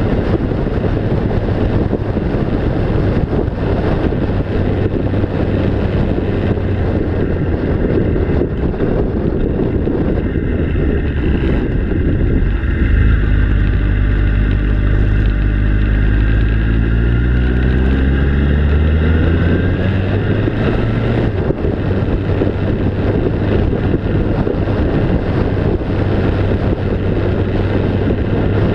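Steady low rumbling noise, like a vehicle on the move with wind on the microphone. From about 12 to 20 seconds in, an engine note rises out of it and falls steadily in pitch, as a vehicle passing by.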